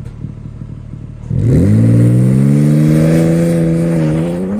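BMW G80 M3 Competition's twin-turbo inline-six through an equal-length mid pipe, idling with an uneven rumble, then revved up sharply a little over a second in and held at steady high revs.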